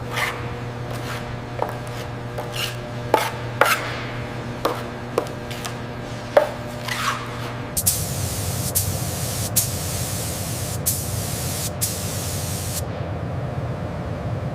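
A steady hum with irregular sharp taps and clicks. About eight seconds in, a loud hissing spray starts and stops several times in short bursts, then the hiss drops to a lower, steady rush.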